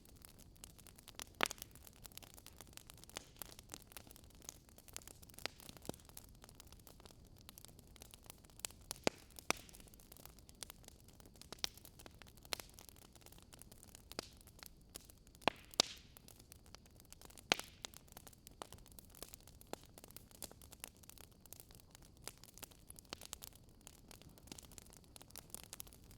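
Wood fire crackling: irregular sharp pops and snaps, a few louder, over a soft steady hiss.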